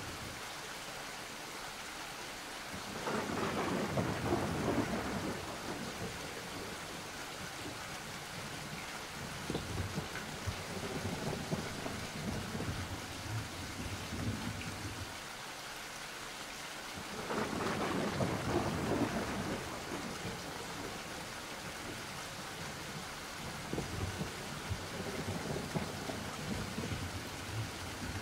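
Thunderstorm: steady rain with two long rolls of thunder, the first about three seconds in and the second a little past the middle.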